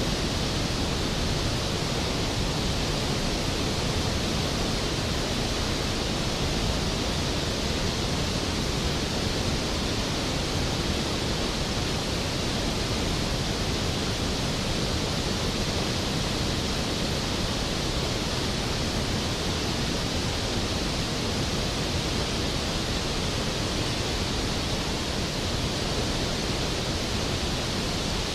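Skógafoss waterfall's water thundering down: a steady, dense rushing, even and unbroken.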